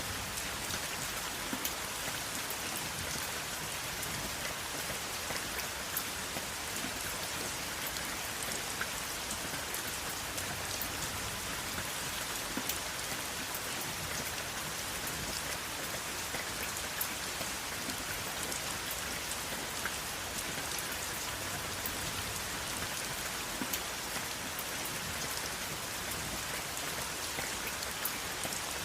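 Steady rain falling, a dense even hiss with many individual drops ticking sharply on a surface, and no thunder.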